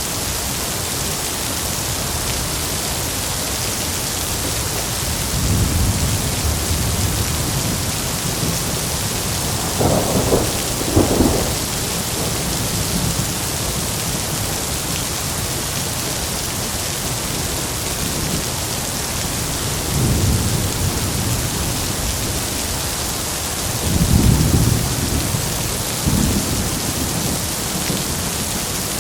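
Heavy rain falling steadily, with several rolls of thunder rumbling through it, the strongest about ten seconds in and again near twenty-four seconds.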